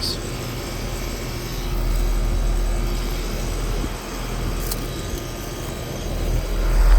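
Ruud Achiever 14 heat pump outdoor unit running in cooling mode: steady compressor hum and condenser fan air noise, with a low rumble that swells near the end.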